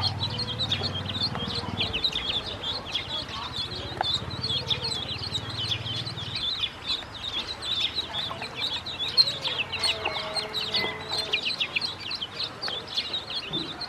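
A flock of ducklings peeping continuously: many short, high, falling chirps overlapping one another.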